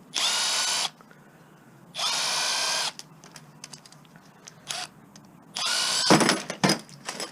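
A power drill run in three short bursts, each under a second, its motor whine steady once up to speed, as it drives screws out to free a transformer from the appliance. A few sharp metal knocks follow near the end.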